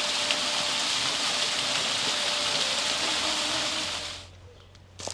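Waterfall's rushing water, a loud steady hiss that cuts off about four seconds in. A faint low hum and a single sharp click follow near the end.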